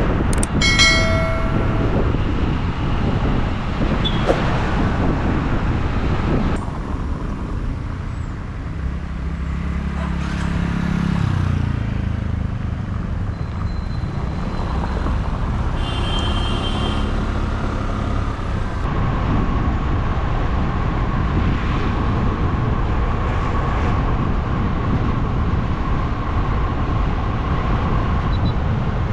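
Steady road and traffic noise heard while riding along a road. A short vehicle horn toot sounds about a second in, and a passing vehicle's engine rises and falls near the middle.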